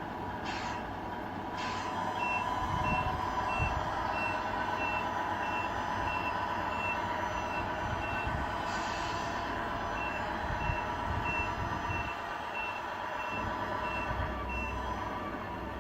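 Reversing beeper of a radio-controlled truck's sound unit, beeping at a steady high pitch a few times a second with a short break midway, over the unit's simulated truck engine running.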